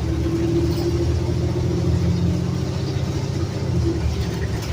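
City transit bus engine running with a steady low rumble and a held hum, the lower engine tones shifting about two and a half seconds in.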